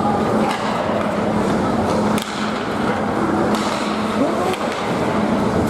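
Ice hockey play on a rink: skates scraping the ice and sticks and puck clacking, over the steady hum and noise of the arena, with a few sharp knocks, the clearest a little after two seconds in.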